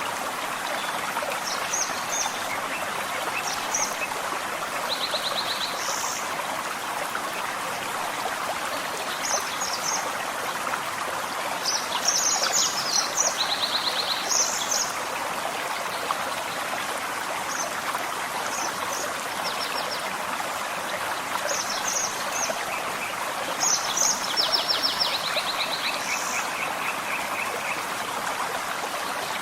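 Forest stream flowing steadily, with small birds calling on and off above it in short high notes and a few quick trills.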